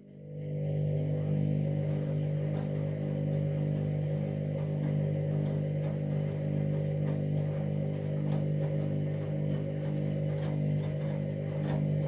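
Candy washing machine running with a steady, even-pitched hum that builds up over the first second, with faint ticking over it, and cuts off suddenly at the end.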